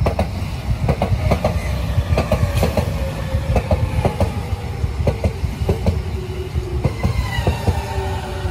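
JR 209-series electric commuter train running along the platform, its wheels clacking over rail joints under a steady rumble. Near the end, a motor whine drops in pitch as the train slows.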